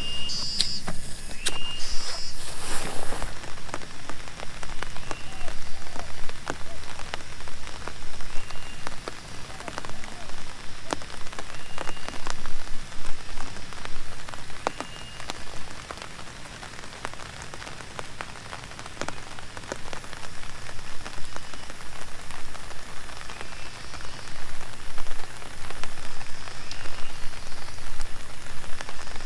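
Steady rain falling, with many separate large drops tapping sharply on a surface.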